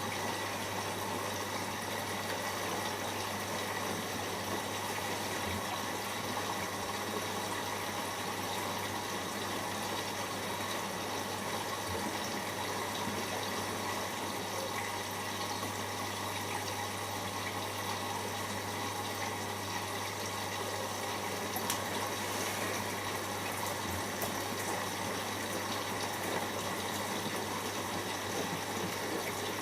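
Siemens iQ washing machine in its first rinse, water gushing steadily into the drum over a low, steady hum.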